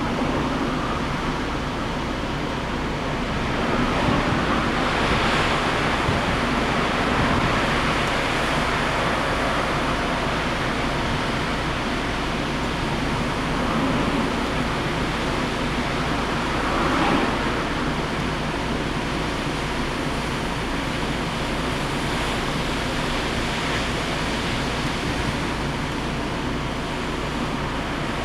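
Typhoon-driven wind and heavy surf: a steady rush of wind and breaking waves, swelling louder about four seconds in and again around seventeen seconds.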